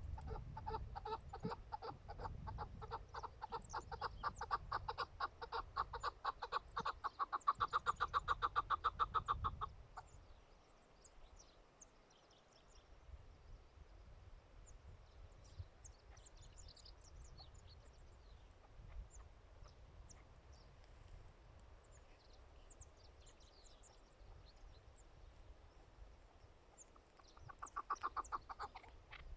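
Chukar partridge calling: a rapid series of clucks that builds in loudness for about ten seconds and then stops abruptly. A second short burst of the same clucking comes near the end.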